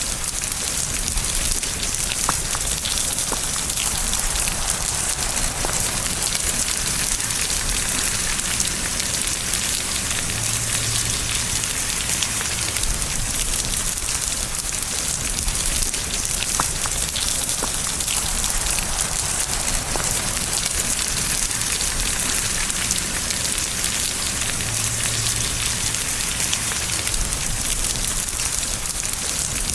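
Steady rain falling, an even hiss of rain with the ticks of single drops striking through it.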